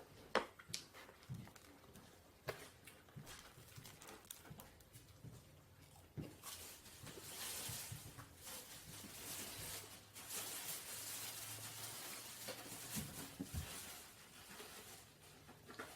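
Faint eating sounds close to the microphone: sharp mouth clicks in the first few seconds, then a longer stretch of noisy hiss with quick crackles from about six seconds in until about fourteen.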